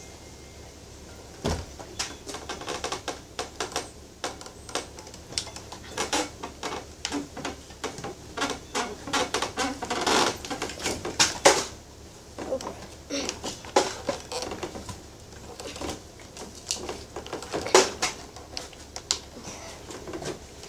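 Irregular clattering and knocking of things being handled and shifted around a garage, starting with a sharp knock about a second and a half in and going on in quick, uneven clicks and bangs.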